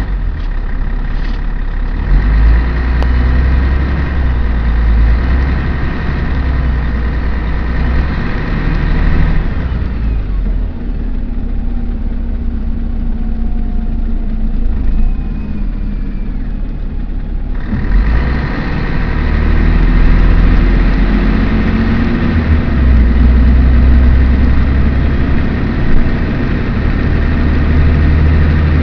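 Scania CN113ALB articulated bus's diesel engine running as the bus drives off. It is a loud low rumble whose pitch rises and falls as it pulls away. For several seconds in the middle the upper hiss drops away.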